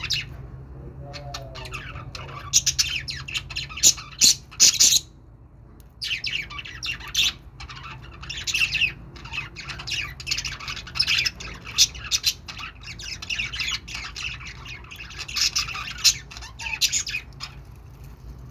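Budgerigars chattering and warbling in rapid, squawky runs of chirps, with a short pause about five seconds in. A steady low hum runs underneath.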